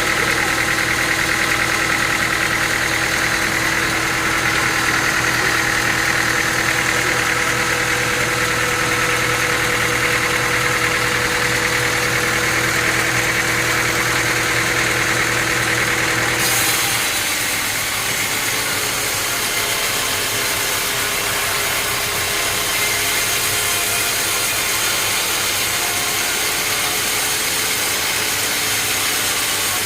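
Sawmill machinery running steadily with an engine-like hum and constant tones; a little past halfway the sound changes abruptly to a different, noisier machine sound.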